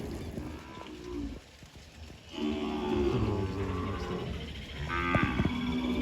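Cattle mooing: a long low call starting about two seconds in, then another near the end.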